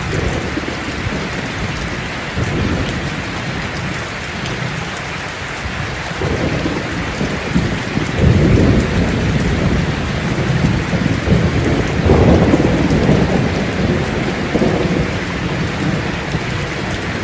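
Steady heavy rain with rolling thunder that swells into long low rumbles twice, from about six seconds in and again from about twelve seconds in.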